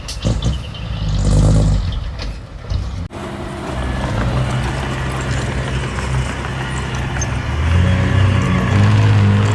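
Diesel engine of heavy earthmoving machinery running, with a brief hiss about a second and a half in; the sound changes abruptly about three seconds in.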